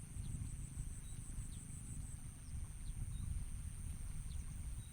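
Steady high-pitched insect trill that pulses for the first two seconds, over a low rumble of wind on the microphone, with a few faint, brief high chirps.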